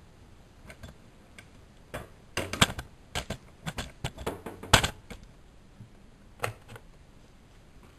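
Someone handling a washing machine: a quick run of sharp plastic-sounding clicks and knocks over about three seconds, then one more click a little later.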